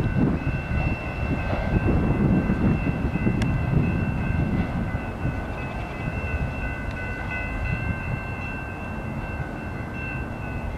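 Freight train rolling past: the rumble of its cars on the rails slowly eases off, with a steady high ringing tone over it throughout.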